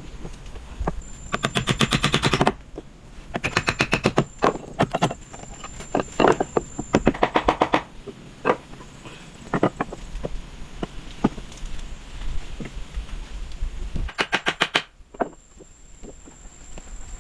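Wood being struck with a hand tool in quick runs of sharp knocks, several bursts of about ten strikes a second with single knocks in between.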